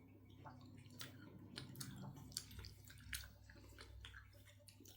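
Faint, irregular wet clicks and smacks of people chewing sticky, chewy gummy sweets.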